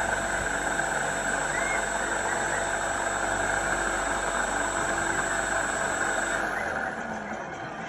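Radio-controlled model Cessna 182 Skyline's motor running steadily with a high whine, then cutting off about six and a half seconds in, leaving the sound to fade.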